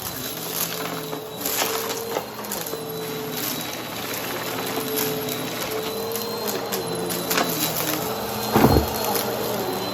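Brushroll vacuum cleaner running on carpet: a steady motor hum with a high whine, and scattered crackles as debris is picked up. One louder thump comes near the end.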